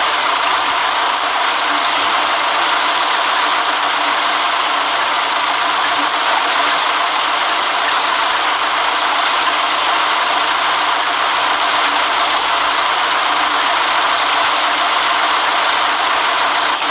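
City bus heard from inside the cabin while riding: a steady noise of engine and road, with rattling.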